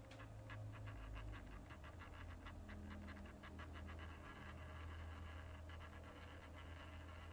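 Faint low hum of a small motor with quick scratchy ticks, several a second, that fade out about four seconds in.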